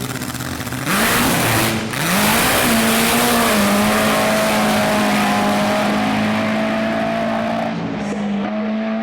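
A drag racing car's engine revs up loudly in two quick rises, then holds a steady high rev for several seconds over a rushing noise, easing off slightly near the end.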